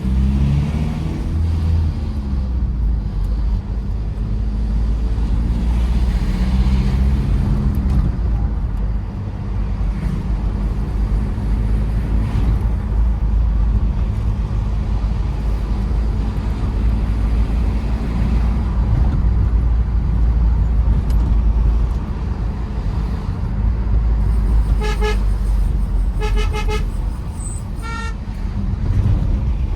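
Tata Safari Storme's 2.2-litre diesel engine and road noise while driving, the engine pitch rising and falling in the first several seconds. A few short horn toots sound about three-quarters of the way through, one single and then a couple in quick succession.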